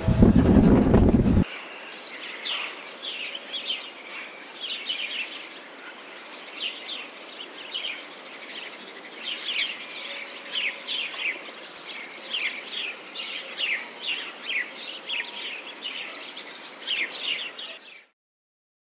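A loud low rumble cuts off abruptly about a second and a half in, giving way to a flock of small birds chirping: a dense, steady stream of short, quick downward chirps that stops near the end.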